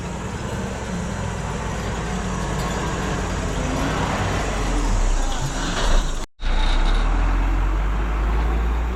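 Heavy truck engine running under way, a steady low rumble that slowly grows louder, broken by a brief cut to silence about six seconds in.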